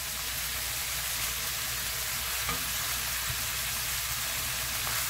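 Squid pieces sizzling steadily in hot oil in a wok being stir-fried over high heat as the seasoning paste goes in, with a few faint clicks.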